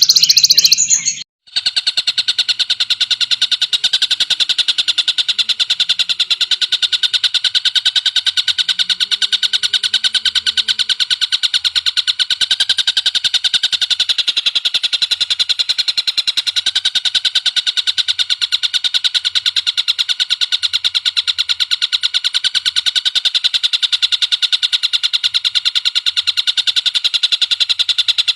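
A bird's rapid, rattling trill held without a break for many seconds, a fast even stream of ticks on one high pitch, starting after a short cut about a second and a half in.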